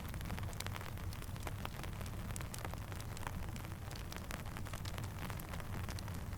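Steady rainfall mixed with a crackling campfire: an even hiss over a low rumble, with many small sharp crackles and pops scattered throughout.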